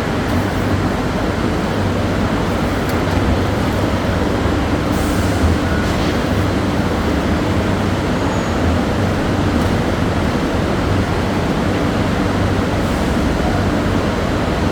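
Plywood glue spreader machine running: a steady mechanical drone with a low hum underneath.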